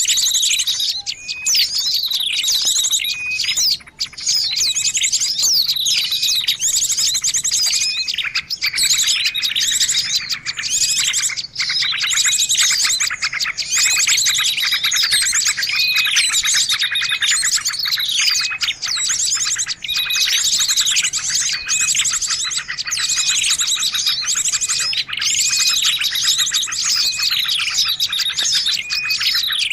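A dense, noisy chorus of many small birds chirping and calling over one another without pause, a mixed-species bird-lure recording. Quick high chirps and short falling notes crowd together throughout.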